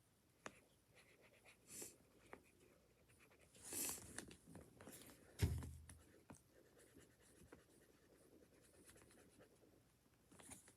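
A coloured pen writing letters on paper: faint scratching strokes with a couple of soft swishes, and one dull thump about halfway through.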